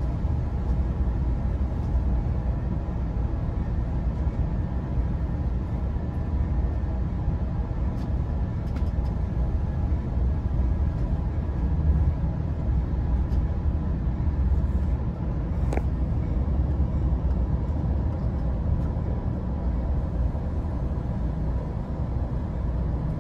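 Steady low rumble inside a moving Amtrak Pacific Surfliner bi-level passenger car: the wheels running on the rails, with a faint steady hum and a couple of light clicks.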